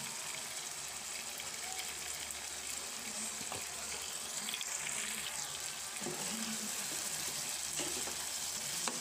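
Pork and potato pieces sizzling in oil and reduced adobo sauce in an electric pan, a steady crackling hiss as the dish fries down to dry adobo.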